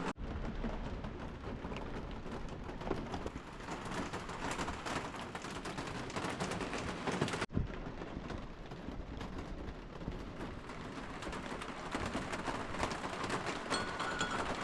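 Steady rain falling, an even hiss with no let-up apart from a brief break about halfway through.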